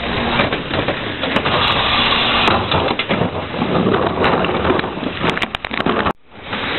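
Garbage truck, a Heil 5000 rear loader, running while trash is crushed in the hopper, with many sharp cracks and snaps of breaking material over the engine. The sound cuts out abruptly for a moment near the end.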